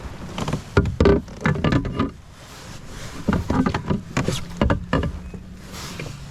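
Irregular knocks, taps and rattles of gear being handled on a kayak while a freshly caught bass is measured, over a steady low hum. There is a brief lull about two seconds in.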